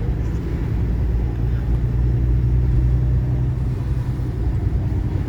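Steady low engine and road drone heard from inside the cab of a moving vehicle.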